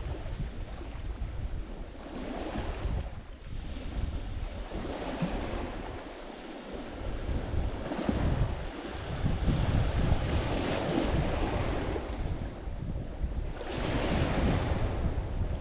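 Lake Michigan waves breaking on a rocky shore, the wash swelling and falling back every few seconds, with wind buffeting the microphone.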